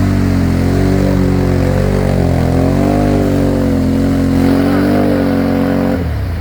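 ATV engine running under throttle, its pitch rising and falling as the rider works the gas. It drops off sharply near the end.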